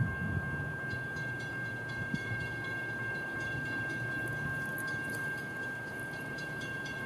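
An approaching CSX freight train, heard before it comes into view: a low rumble under a steady high-pitched ringing tone that starts suddenly, with light irregular clicking from about a second in.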